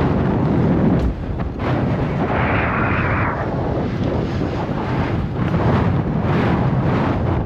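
Wind buffeting a GoPro's microphone while cycling, a steady low rumble, with a brief hiss about two to three seconds in.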